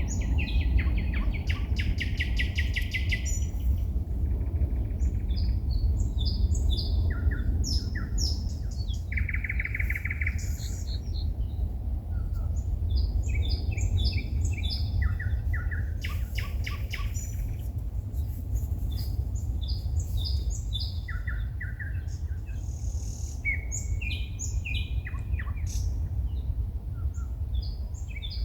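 A songbird singing at night: a varied run of short repeated phrases, rapid clicking trills and a buzzy rattle, with short pauses between phrases. A steady low rumble runs underneath.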